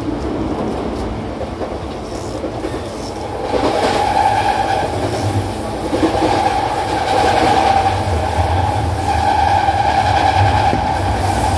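E235 series 1000 commuter train running at speed, heard from inside the passenger car: a steady rumble of wheels on rail that grows louder about three and a half seconds in, with a steady tone riding on top.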